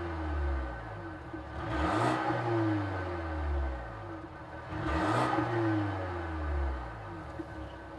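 Mercedes-Benz A250's M260 turbocharged 2.0-litre four-cylinder, breathing through a Stone Exhaust valved cat-back system, revved twice about three seconds apart. Each time the pitch jumps up quickly and sinks slowly back down.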